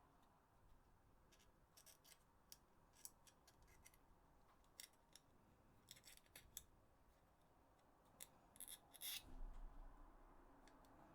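Faint, irregular small clicks and taps of hard parts being handled, with a louder cluster of clicks about nine seconds in and a brief low rumble just after.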